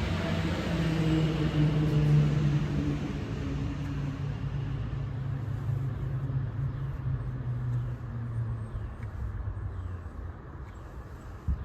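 A motor vehicle's engine running with a steady low hum. It fades gradually and cuts off at the end.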